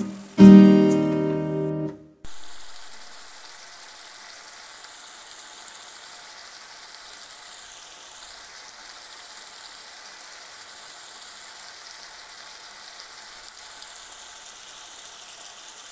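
Acoustic guitar music for about two seconds, then it cuts off suddenly. After that, chicken curry sizzles steadily in an open pan, with an occasional small pop.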